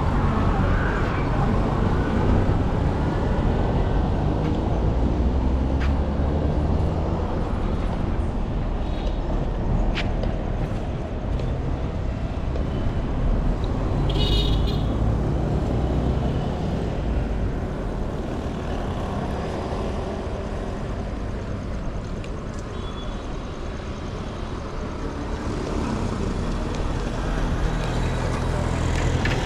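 Street traffic: a continuous low rumble of passing vehicle engines and tyres that eases off past the middle and builds again near the end. A few sharp clicks and one brief high-pitched sound about fourteen seconds in.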